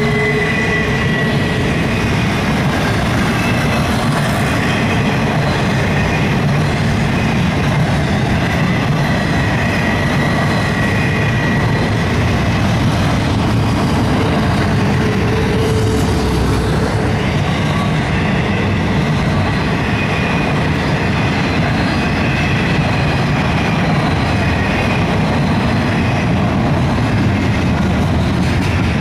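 Double-stack intermodal well cars of a CSX freight train rolling past: a steady, loud rumble of steel wheels on rail, with thin high wheel squeals that come and go.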